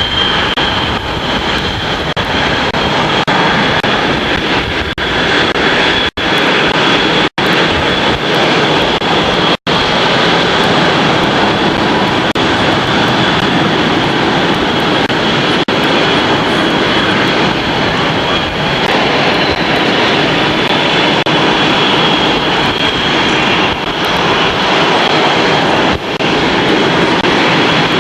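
Aircraft engine running steadily and loudly at an airshow, a thin high whine held above a dense rush of engine noise. The sound drops out for an instant a few times in the first ten seconds or so.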